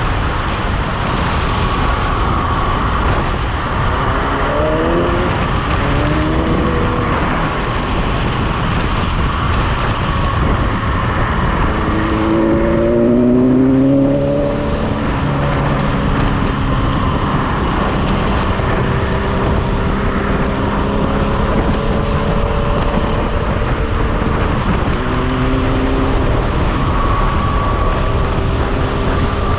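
Steady rushing wind and road noise of riding an electric scooter at speed. Over it, a motor vehicle engine revs up in rising steps twice, about four and twelve seconds in, then holds a steady note.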